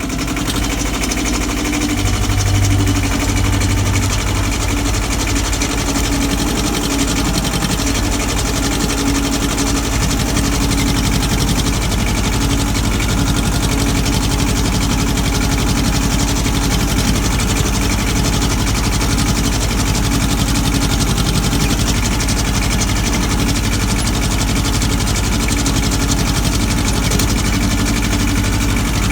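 Ford 1700 compact tractor's three-cylinder diesel engine running steadily under load, pulling a single-bottom moldboard plow through the ground.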